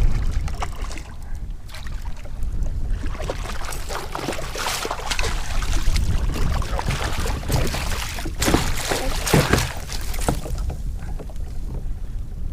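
Water splashing and sloshing around a fishing kayak, most busily through the middle, over a steady low rumble of wind on the microphone.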